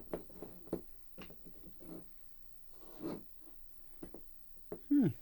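Small handling noises, light rubbing with scattered soft clicks. About five seconds in comes a short, louder sound that falls sharply in pitch, like a brief vocal grunt.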